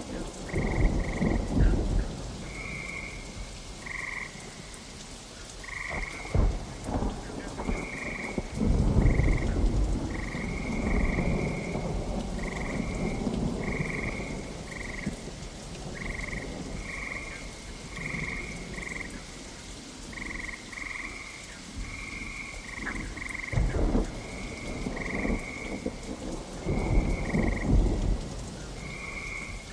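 Steady rain with rolls of thunder that swell near the start, several times in the middle, and again near the end. Over it, a short animal call repeats about once or twice a second throughout.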